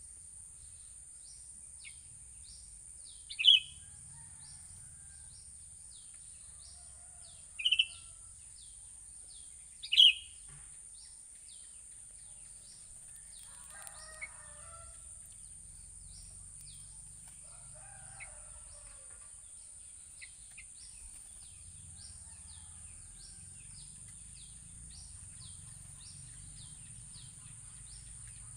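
Sooty-headed bulbul giving three loud, short calls a few seconds apart, over a constant run of faint high chirps and a steady high hiss. A distant rooster crows twice in the middle.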